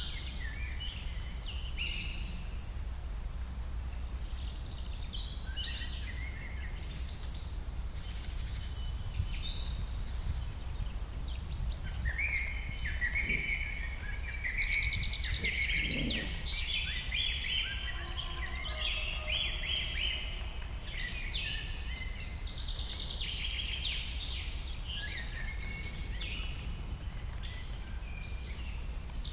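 Several small birds chirping and singing over a steady low background rumble.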